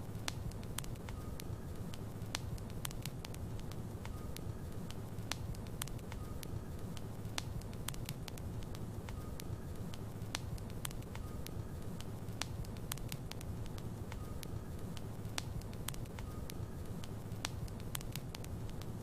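Logs burning in a fireplace, the wood crackling with sharp, irregular pops over a steady low rumble of the flames.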